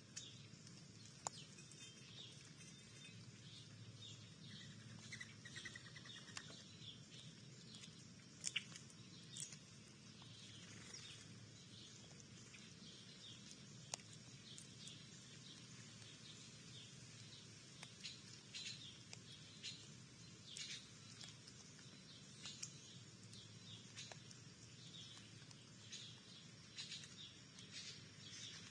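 Faint chirping of small songbirds, short high calls coming every second or so, with a few sharp clicks.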